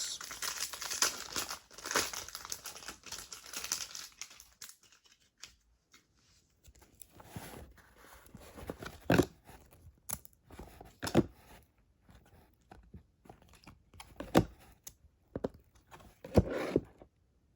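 A foil trading-card pack wrapper is torn open and crinkled for the first four seconds or so. Scattered short clicks and snaps follow as the cards are handled.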